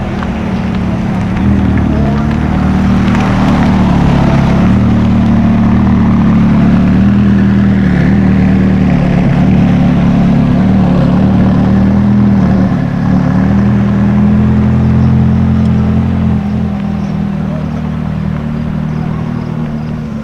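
A car engine running steadily at low revs, close and loud. It swells about a second and a half in and eases off again about sixteen seconds in.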